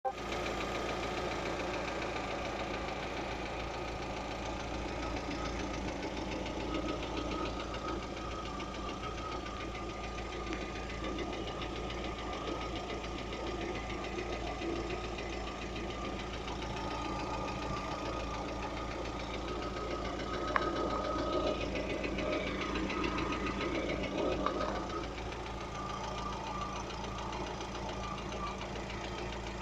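Lada Vesta engine running steadily with a rapid, repeated knock. The owner does not know what is causing it. A single sharp click sounds about two-thirds of the way through.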